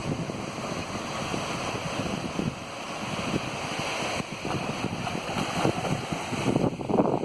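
Steady rushing of a waterfall, with gusts of wind buffeting the microphone that grow stronger near the end.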